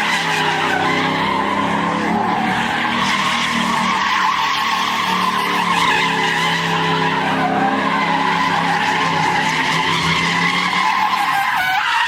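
Car tires squealing without a break as a car spins its wheels on pavement, with its engine running hard underneath.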